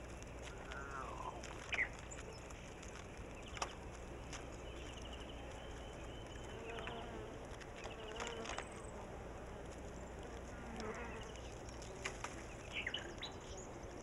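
Scattered bird calls and short chirping trills, some sweeping up or down in pitch, with two sharp clicks about two and four seconds in.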